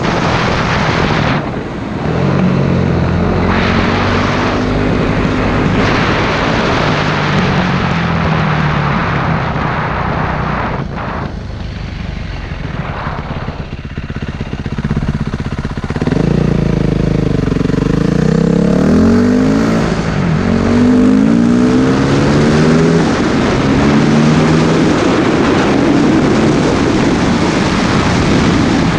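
Motorcycle engine under way, revving up and dropping back repeatedly as it shifts through the gears, most strongly from about halfway, over heavy wind rush on the microphone.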